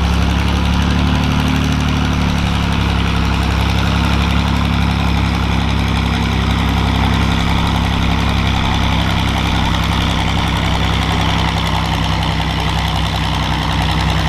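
John Deere 4010 diesel pulling tractor's engine running steadily and loudly under load during a pull.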